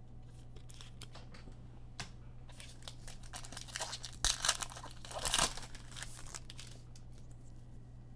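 Foil trading-card pack being torn open and its wrapper crinkled, in a few rustling bursts through the middle, the loudest two about a second apart, among light clicks of cards being handled.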